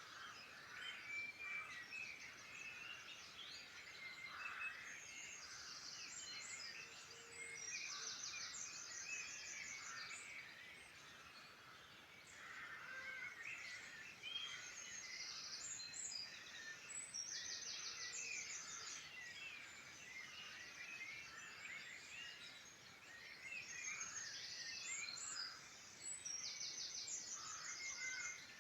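Several wild birds singing at once in an overlapping chorus of chirps and whistles, with a fast, high trill of rapidly repeated notes coming back every few seconds.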